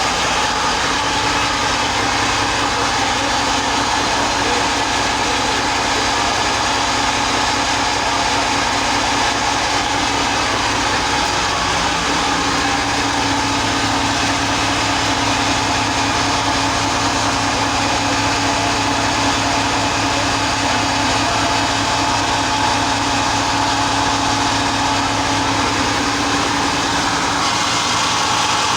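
Ship's engine running steadily: a loud, even mechanical drone with a constant hum underneath.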